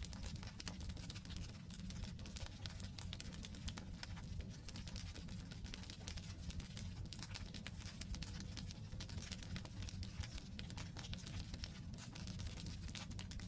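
Wood campfire burning, with dense, constant crackling and snapping of the logs over a low, steady rumble.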